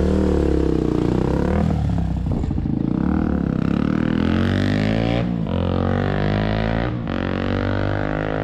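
Honda XR250R's single-cylinder four-stroke engine being ridden, its pitch rising and falling with the throttle, with two brief drops about five and seven seconds in. It runs cleanly, just after a carburettor rebuild.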